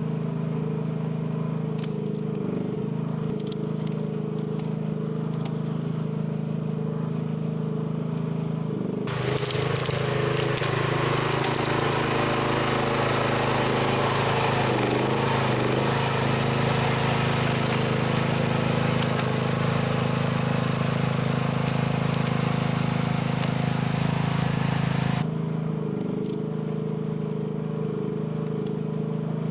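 AGT L12 mini excavator's engine running steadily. For about sixteen seconds in the middle, a louder rough crackling, scraping noise joins it, starting and stopping abruptly.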